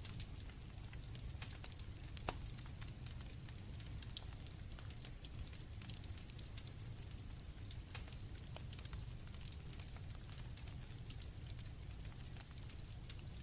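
Campfire crackling with scattered sharp pops over a low rumble, with crickets trilling faintly and steadily in the background.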